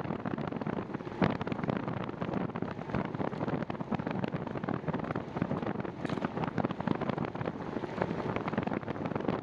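Wind buffeting the microphone of a camera on a moving bicycle, over steady road noise, with one sharp knock about a second in.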